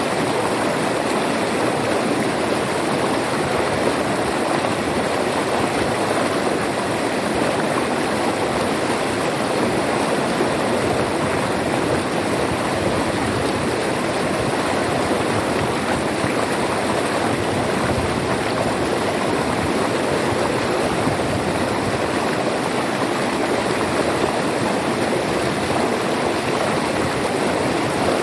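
River water flowing and rushing over rocks, a steady, even rush with no pauses.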